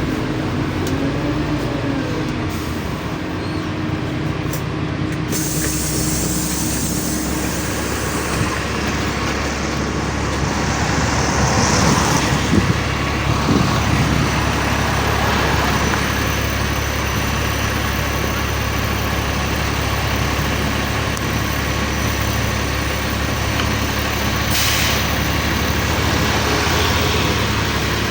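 LiAZ-5292 low-floor city bus heard from inside while moving: a steady engine drone under road noise. There are brief hisses of compressed air, one about twelve seconds in and a short sharp one near the end.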